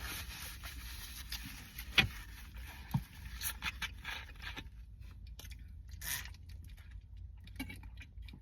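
A person chewing and eating a burger slider: wet mouth noises and scraping, with sharp smacks or clicks about two and three seconds in.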